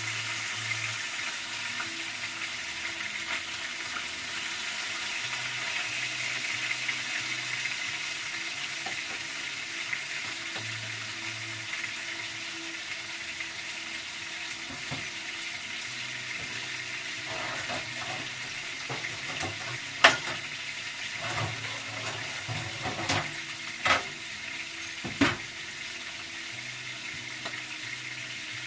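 Food frying in oil in a pan: a steady sizzle, with a few sharp clicks or pops in the last third, the loudest one about two-thirds of the way through.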